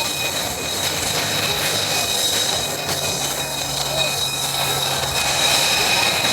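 F-35A's Pratt & Whitney F135 jet engine running steadily, with a high-pitched whine held on two steady tones over a rushing noise.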